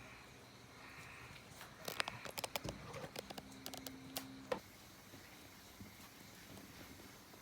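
A quick flurry of light clicks and clinks from small metal parts being handled, lasting about two and a half seconds around the middle, then faint room tone.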